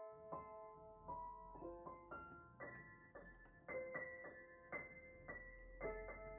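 Soft background piano music, a run of notes that ring and fade one after another.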